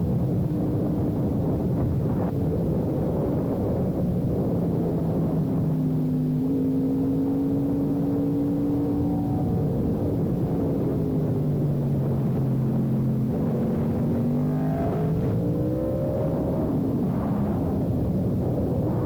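Sportbike engine running under way, its pitch holding steady, then dropping about ten seconds in and climbing again near the end as the revs change.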